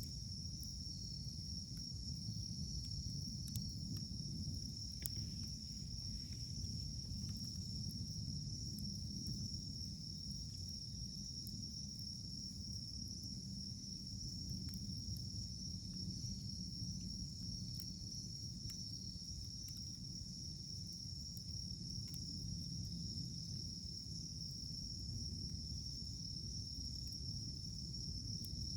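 Wood campfire burning: a low steady rumble of flames with sparse faint crackles of firewood, under a constant high-pitched ringing hum.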